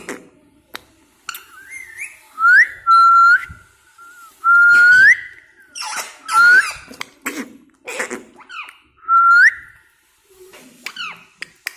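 Pet parrot whistling: about five loud whistled notes, each held on one pitch and then flicking sharply upward at the end, with short harsh chattering calls in between.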